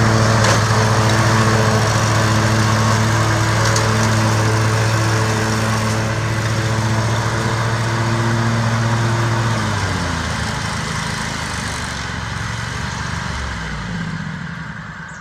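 John Deere L120 riding lawn tractor running steadily while mowing. About ten seconds in the engine note drops in pitch as it slows, and the sound fades away near the end.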